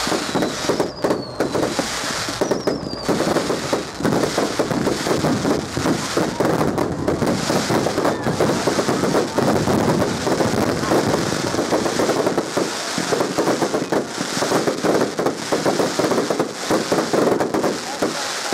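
Fireworks display in full flow: a dense, continuous crackling of many small bursts, with a few short falling whistles in the first few seconds.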